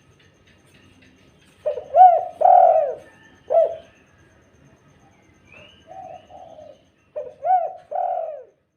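Spotted dove (tekukur) cooing: two phrases of several short arched coos each, with a fainter run of coos between them.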